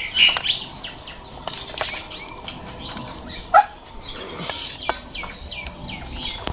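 Small birds chirping over and over, with a few clinks of a serving spoon on a steel plate and one sharper, louder note about three and a half seconds in.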